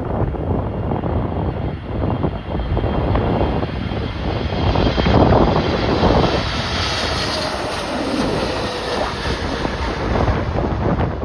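Jet airliner's engines passing close by, their whine swelling in the middle and fading near the end, under strong gusts of wind buffeting the microphone.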